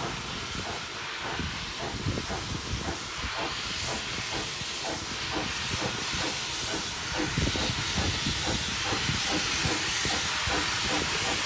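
Steam locomotive hissing steam, with a quick regular beat of about three pulses a second underneath, gradually getting a little louder.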